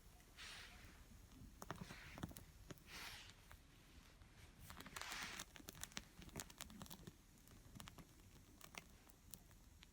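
Small wood fire in a compact fire pit crackling faintly, with scattered pops and ticks and a few short hissing rushes.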